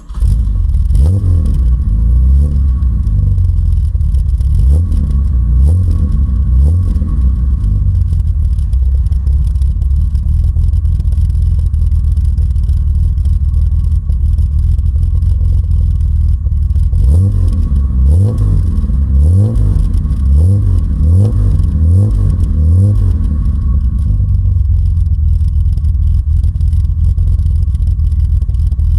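BMW M30B28 2.8-litre straight-six with a Solex 4A1 four-barrel carburettor, running from cold. It is given a series of quick throttle blips over the first several seconds and again from about seventeen seconds in, and idles steadily in between and near the end.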